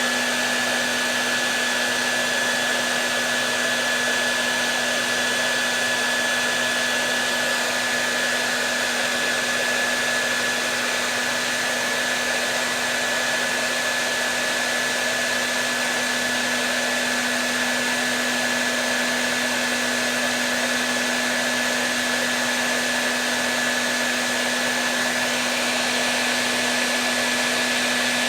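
Hair dryer running continuously, a steady rushing blow of air with a constant motor hum and a thin high whine. It is played as white noise to soothe a baby to sleep.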